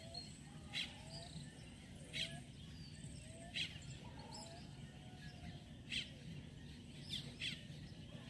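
Birds chirping: short sharp chirps every second or two over a steady low background rumble.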